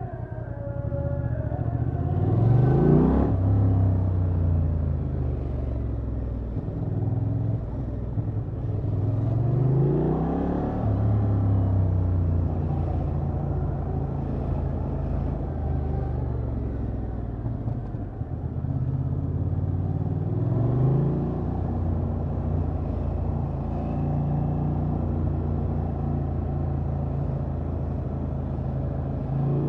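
Honda XL750 Transalp's 755 cc parallel-twin engine on its stock exhaust, heard from the rider's seat: it revs up three times, about two, nine and twenty seconds in, each time rising in pitch and then settling back into a steady cruising note.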